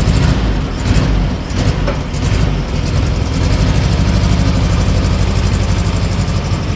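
A car engine running steadily, with an even low firing pulse.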